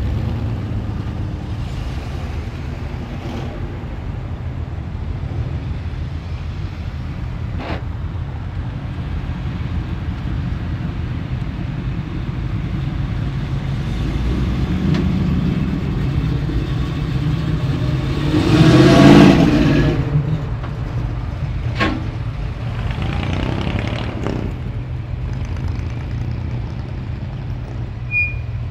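Engines of classic and custom cars rumbling as they drive past one after another at low speed, with one car passing loudest about two-thirds of the way through.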